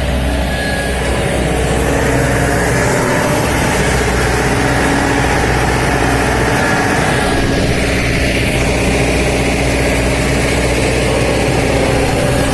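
Heavy diesel machinery engine running steadily, with a shift in its higher tones about seven seconds in.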